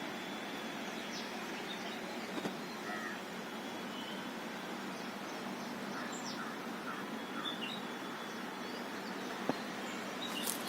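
Outdoor ambience: a steady background hiss with scattered short bird chirps and calls, and a single sharp click about nine and a half seconds in.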